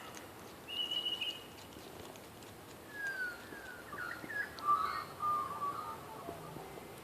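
Birds calling: a steady high whistled note about a second in, then a run of falling whistled notes and short chirps through the middle.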